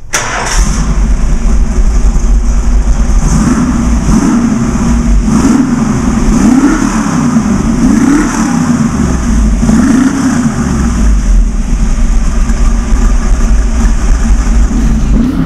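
Ford 302 HO small-block V8 running loud and revved several times, its pitch rising and falling with each blip of the throttle.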